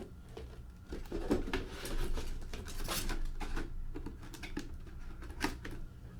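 Packaging being handled by hand: a run of crinkles, rustles and small clicks starting about a second in, over a low steady hum.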